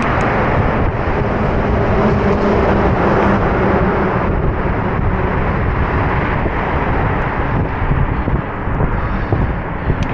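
Steady rushing wind noise on the microphone of a moving bicycle, with a faint hum in the first few seconds.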